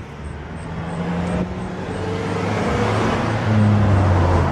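A motor vehicle drives nearby: a low engine note and tyre noise grow steadily louder as it approaches.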